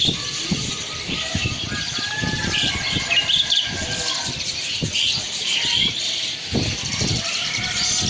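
Many caged songbirds chirping and trilling at once, over a low, irregular background rumble.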